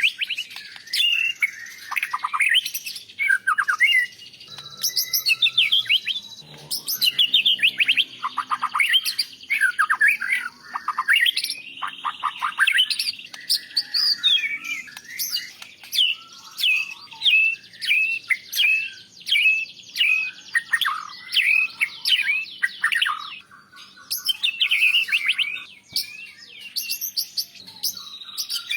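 White-rumped shama (murai batu) singing a rich, varied song of rapid sweeping whistled notes, phrase after phrase with only short breaks.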